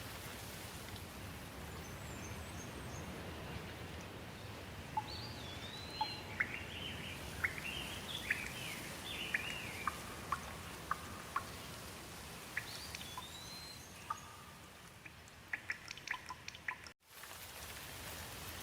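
Steady rain with small birds chirping and whistling over it, many short calls coming between about five and sixteen seconds in. The sound cuts out for an instant near the end, then the rain returns.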